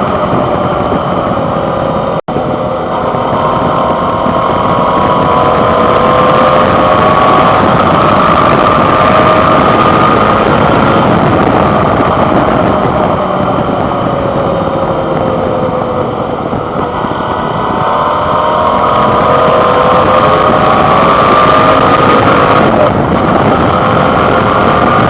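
Suzuki DL650 V-Strom's 645 cc V-twin engine running under way, heard through a handlebar-mounted camera microphone with a steady rush of noise. The engine pitch eases down in the middle and climbs again later, and the audio cuts out for an instant about two seconds in.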